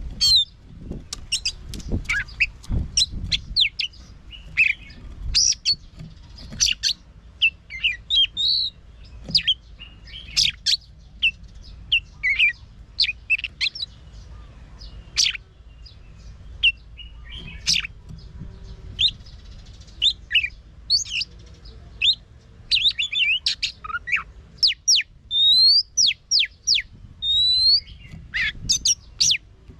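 Oriental magpie-robin singing a long, varied song of quick whistles, chirps and sharp notes, with a run of repeated rising whistles near the end.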